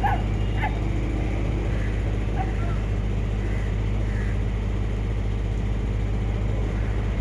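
A steady low motor-like drone, with a few short, high animal cries in the first second and fainter ones later.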